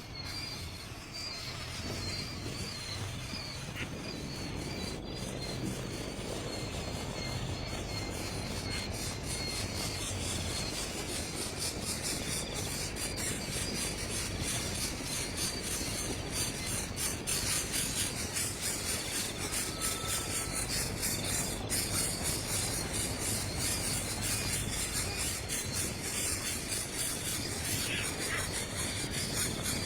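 Outdoor natural ambience: insects chirring steadily with a dense high buzz, and a few short bird chirps in the first seconds.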